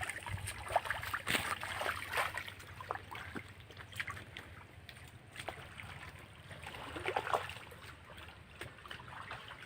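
Irregular splashing and sloshing of shallow, muddy water, with scattered small splashes and a few louder ones about a second in, around two seconds and again around seven seconds.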